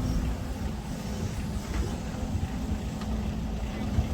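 Kobelco SK200-10 excavator's diesel engine running steadily under load, a continuous low drone.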